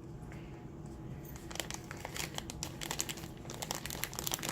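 Plastic packaging crinkling and rustling as it is handled, with many quick crackles that grow busier about a second and a half in.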